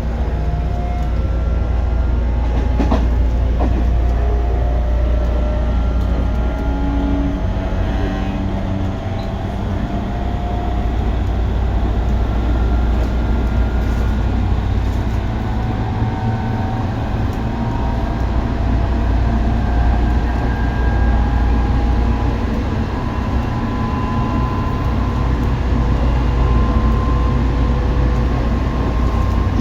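Tobu 9050 series electric train running, with a steady low rumble of wheels on rail and the traction motors' whine gliding slowly in pitch. There is a single sharp click about three seconds in.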